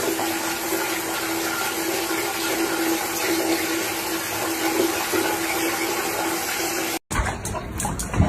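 Steady rush of running water with a constant low hum underneath, cutting off abruptly about seven seconds in; a few clicks and knocks follow.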